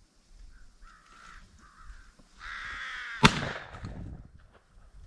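Crows cawing, a short call about a second in and a longer, drawn-out caw shortly after, then a single loud shotgun shot about three seconds in.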